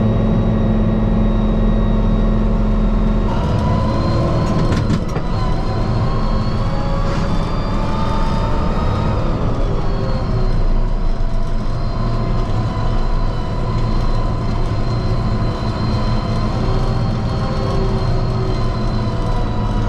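Kubota M5-091 tractor's diesel engine and drivetrain running under way, heard from inside the cab. The pitch changes about three seconds in and then drifts up and down with engine speed, with a few knocks around four to five seconds in.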